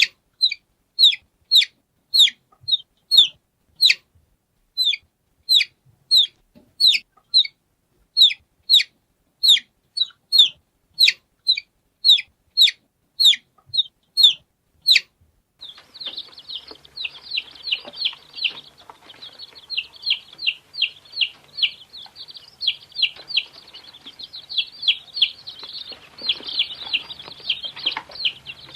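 Domestic chicks peeping: high, short, downward-sliding peeps, about two a second with clear gaps between, for the first half. About halfway through, the sound changes to a group of chicks peeping together in a continuous, overlapping chorus.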